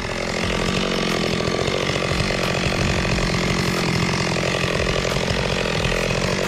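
Chainsaw running steadily at a constant pitch, cutting into a standing tree during felling.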